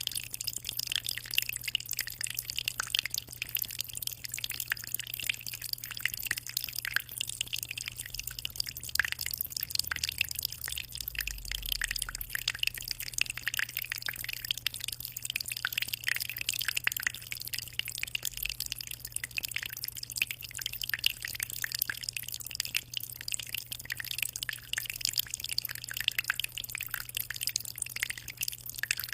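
Continuous water sounds from a 60-liter aquarium: a dense patter of fine drips and splashes over a steady low hum.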